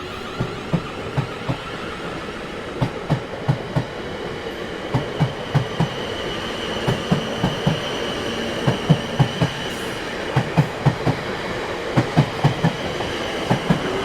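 Train wheels rolling over rail joints: quick clusters of two to four low knocks repeat over a steady rumble, with a faint high steady whine in the middle.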